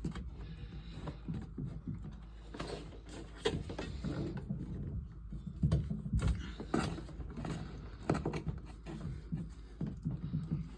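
Irregular clicks, clanks and knocks of hand tools and metal parts being handled during water heater installation work.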